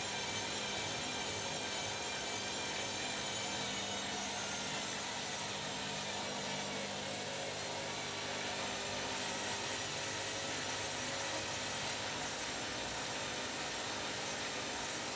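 Washing machine running steadily during a bed-linen wash: a motor hum with a high whine over the churn. A low hum drops out about ten seconds in.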